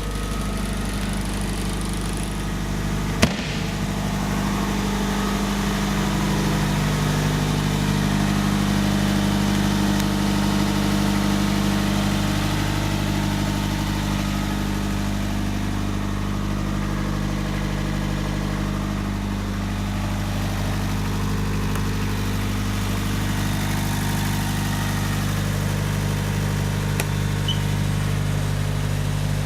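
An engine idling steadily, with one sharp knock about three seconds in.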